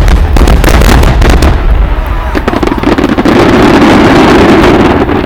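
Large aerial fireworks shot at close range, very loud: a rapid run of booms and bangs in the first second and a half, then a dense continuous roar of overlapping bursts that eases off at the very end.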